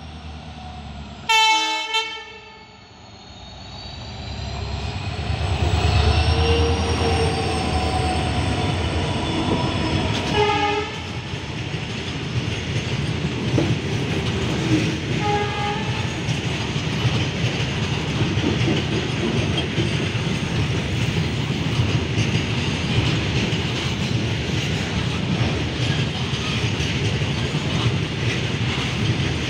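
Indian Railways goods train passing through a station: its locomotive horn gives a loud blast about a second in, sounds again around ten seconds in and briefly at about fifteen seconds, while the approaching rumble builds into the steady rumble and clatter of covered freight wagons rolling past.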